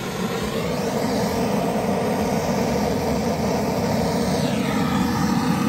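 Handheld gas torch burning with a steady hiss as its flame is held against charcoal briquettes in a chimney starter to light them; the sound swells slightly in the first second.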